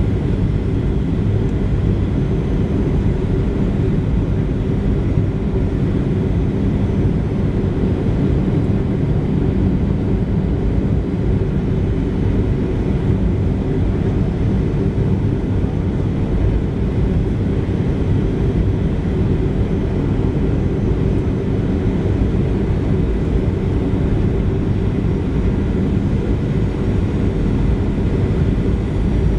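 Steady in-flight cabin noise of a Boeing 737-700, a constant low rumble from its CFM56-7B engines and the airflow over the fuselage, heard inside the passenger cabin.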